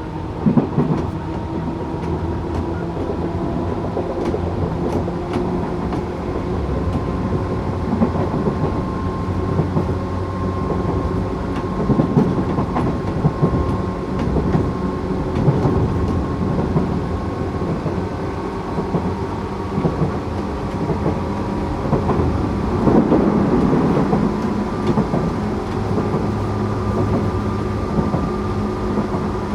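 Tokyu 8500 series electric train with Toyo-made traction motors running along the line: a steady motor hum over wheel-on-rail rumble, with scattered clicks from the rail joints.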